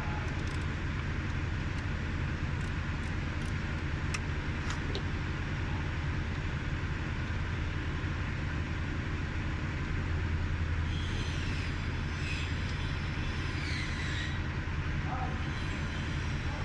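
Ford Crown Victoria V8 engine idling steadily; the car has a cylinder misfire. A few light clicks in the first few seconds.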